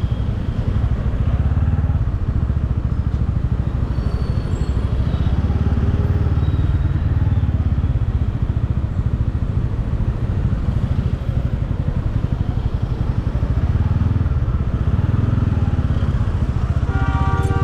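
Motorcycle engine running under way, with a continuous rumble and road and wind noise. Near the end a short steady tone, like a vehicle horn, sounds briefly.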